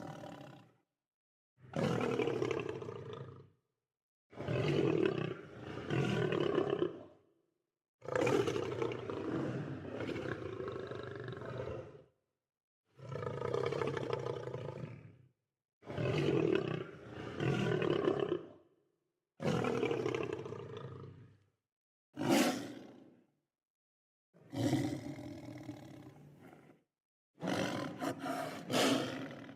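Lion roaring in a run of about a dozen separate calls, each one to four seconds long, with short gaps of dead silence between them.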